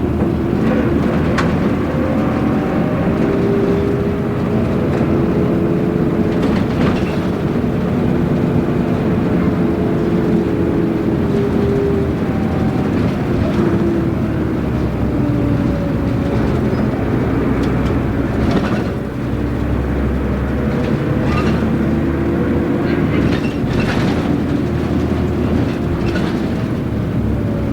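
Running noise inside a route bus under way: the diesel engine's note rises and falls as it pulls and changes gear, over a steady road rumble, with occasional short rattles and knocks from the body.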